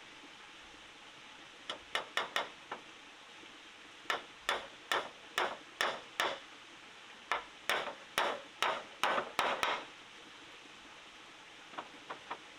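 Hammer blows on wood in three quick runs of several strikes each, about two to three a second, then a few lighter taps near the end.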